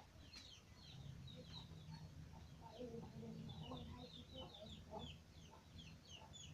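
Chickens peeping and clucking faintly: a quick run of short, high, falling peeps, with lower clucks in the middle.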